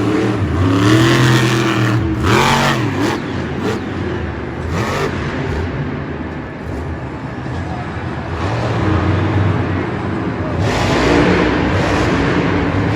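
Monster truck engine revving up and down, with loud surges of noise as the throttle opens.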